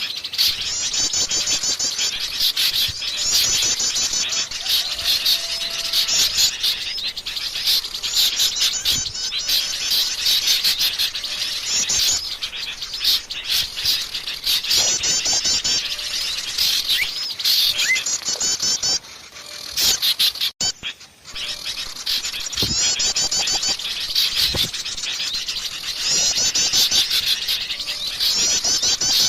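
A dense, noisy chorus of small songbirds chirping and trilling rapidly and high-pitched, a mixed bird-lure recording of agitated birds. The chatter drops away briefly for about a second shortly before 20 s in, then resumes.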